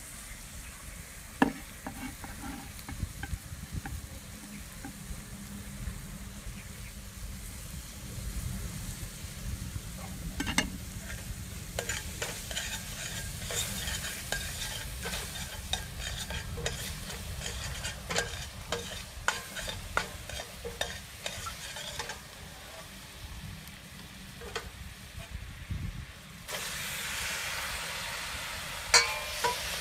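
Chopped garlic and aromatics sizzling in hot oil in a stainless steel pot, with a metal ladle stirring and clinking against the pot. Near the end the sizzle grows louder as raw fish pieces are tipped into the oil.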